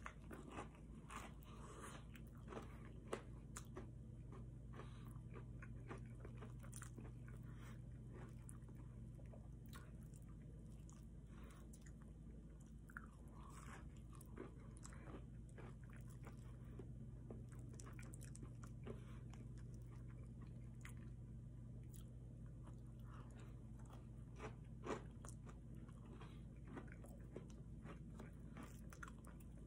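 Close-up chewing and biting of breaded fried chicken tenders: faint crisp crunches and wet mouth sounds, a few sharper bites standing out, over a steady low hum.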